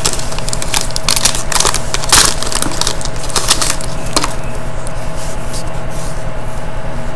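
Hockey card pack wrapper being torn open and crinkled by hand: a quick run of crackles for about the first four seconds, then quieter rustling as the cards are handled.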